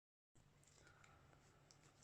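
Near silence: faint room tone with a low hum and a few faint small clicks.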